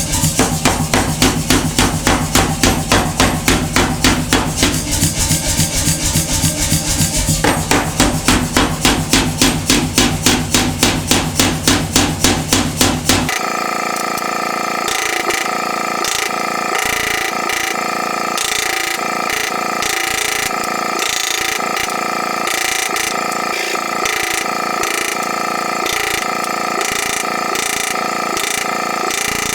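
A blacksmith's power hammer striking hot steel in a rapid, even rhythm of about four to five blows a second. The blows stop abruptly about halfway through, and a steady, rasping power-tool noise takes over.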